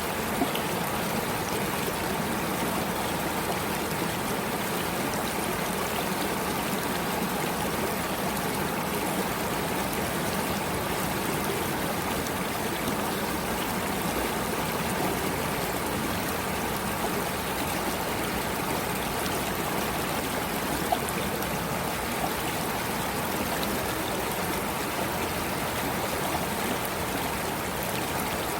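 Running water of a stream, flowing steadily and evenly, with one or two faint ticks.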